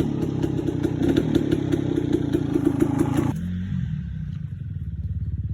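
Dirt bike engine running with a rattly, clattering note for about three seconds, then it cuts off suddenly to a lower, steady, evenly pulsing idle.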